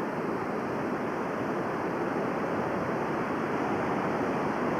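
Steady rushing of the North Fork Wilson River's water flowing past.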